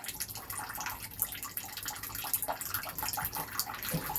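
Tap water running and splashing steadily, with many small irregular spatters.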